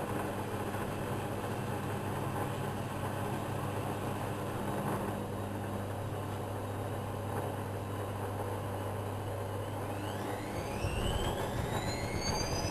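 Whirlpool front-loading washing machine running with a steady low hum. Near the end the hum changes and a motor whine rises steeply in pitch as the drum speeds up.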